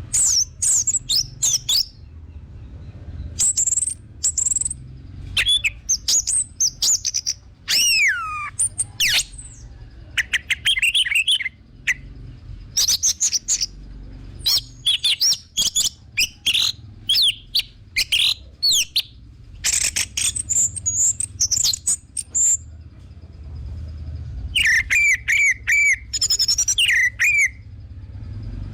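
Orange-headed thrush (anis merah) singing a loud, fast and varied song: runs of short whistled notes and sweeping, falling phrases in bursts with brief pauses between them.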